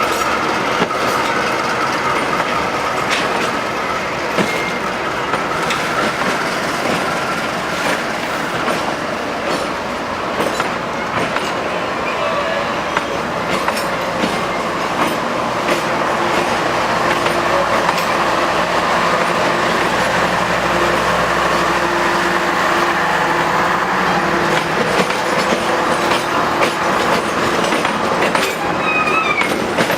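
Passenger train running steadily along the track, with a continuous rumble and wheels clicking over the rail joints.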